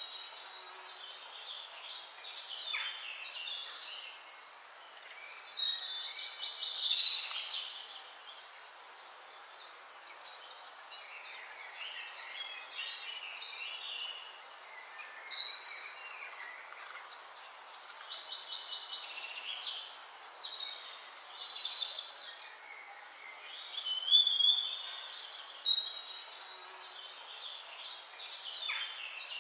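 Birds singing: bursts of chirping, trilling phrases every few seconds, with a steady high hiss between them.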